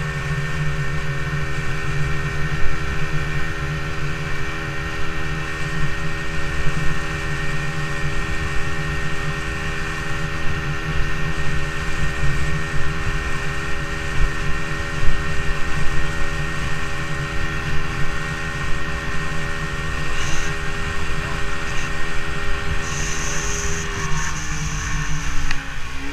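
Motorboat engine running at a steady speed under wind and water noise, its pitch dropping near the end as it throttles back.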